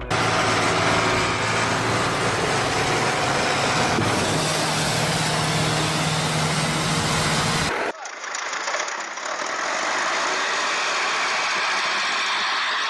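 A motor vehicle's engine running steadily and loudly, with a steady hum running through it; about eight seconds in it cuts off sudden and gives way to a different, thinner steady vehicle noise.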